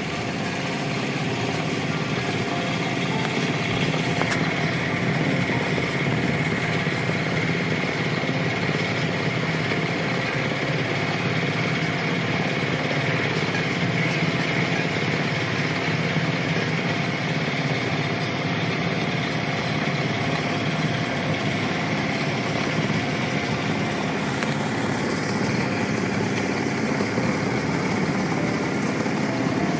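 A small yacht's engine running steadily at a constant speed, with a continuous hum and rush.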